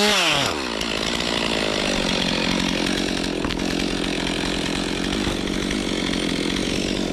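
Stihl MS 362 C two-stroke chainsaw revving once, then settling into a steady, even run about half a second in.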